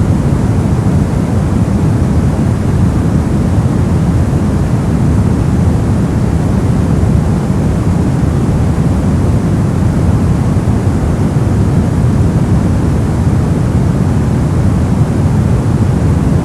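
Steady white noise of the kind used as a sleep and focus aid, unbroken and unchanging, with most of its weight in the low end: a deep, even rush rather than a bright hiss.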